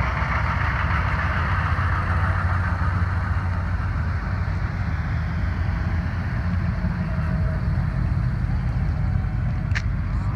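Engines of classic cars and pickups running at low speed as they roll slowly past one after another, a steady low engine note throughout. A brief sharp click comes near the end.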